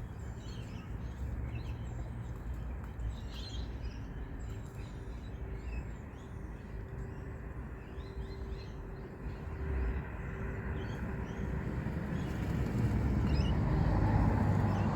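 Outdoor ambience: a steady low rumble that grows louder over the last few seconds, with faint scattered bird chirps and calls.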